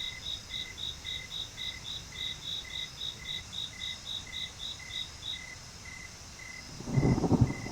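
Insects chirping in steady rhythms: a high chirp about four times a second that stops about two-thirds of the way through, over a lower chirp about twice a second. Near the end, a loud low rumble sets in.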